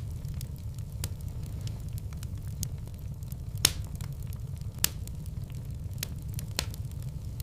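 Fireplace fire burning with a steady low rumble and scattered crackles and pops of burning wood, two louder pops near the middle.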